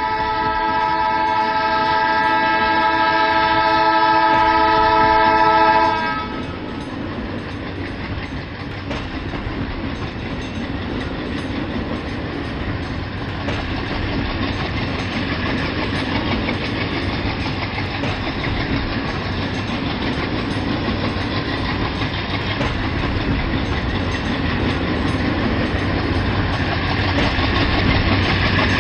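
A train's horn sounds one long chord of several steady notes for about six seconds and cuts off abruptly. Then a train runs on the rails with a steady rumble and clickety-clack, growing louder toward the end as it approaches.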